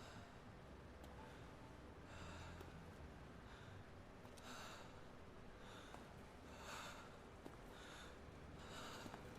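Near silence with faint breaths near the microphone, a short hissy puff every second or so.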